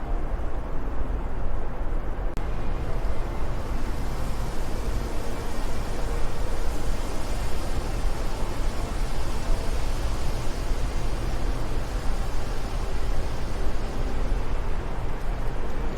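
Wind blowing steadily: a dense rushing noise heavy in the low end, turning a little hissier a few seconds in.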